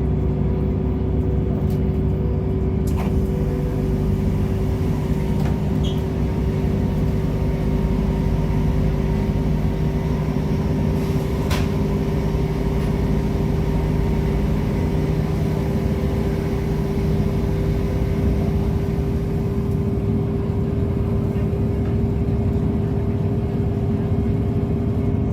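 Steady, unchanging drone of a train's engine, a low rumble with a held hum on top, with a few faint clicks.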